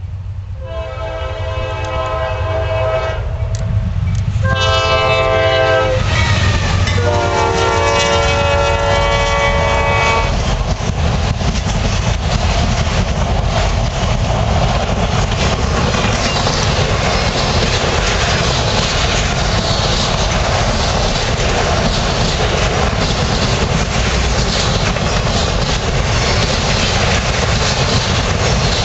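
Norfolk Southern freight locomotive sounding its air horn as it approaches: a long blast, a short one, then a long one that drops in pitch as the locomotive passes. After that comes a steady loud rumble of autorack cars rolling by, with wheels clicking over the rail joints.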